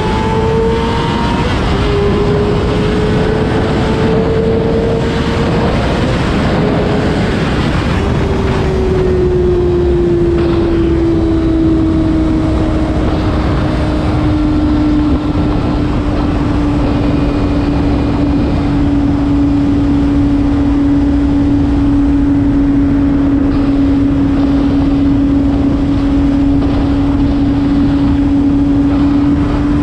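Honda CBR600RR's inline-four engine pulling under a rush of wind, its pitch climbing through the first several seconds, dropping about eight seconds in, then holding steady as the bike cruises.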